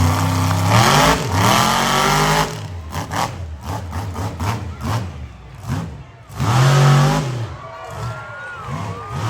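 Monster truck engine revving hard in bursts: a long rev over the first couple of seconds, a rougher, lower stretch, then another sharp rev about six and a half seconds in.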